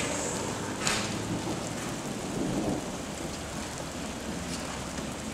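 Steady rain hiss with a low rumble from a thunderstorm, and one sharp click about a second in.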